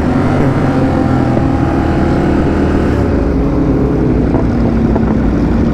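Sport-bike engines running at a steady cruise during a group ride, heard on the move with wind rush; the engine note holds level and sags slightly partway through.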